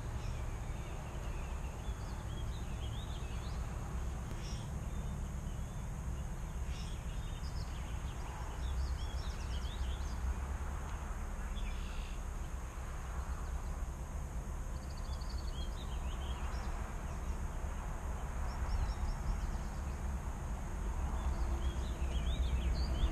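Small birds chirping and singing in short, scattered phrases, over a steady low rumble and a thin high hiss.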